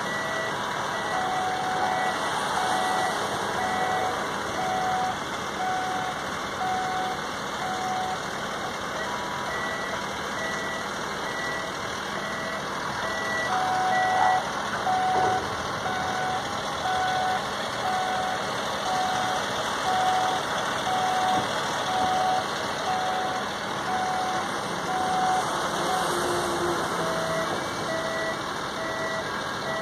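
Electronic warning beeps repeating about once a second at more than one pitch, over a steady rushing background noise.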